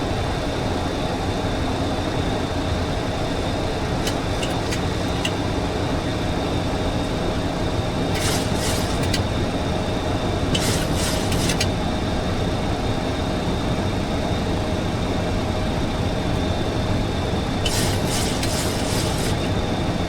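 Steady flight-deck noise of a Boeing 737-800 in flight: airflow and engine drone with a faint constant whine. Three brief clusters of faint high crackles come through about 8, 10 and 18 seconds in.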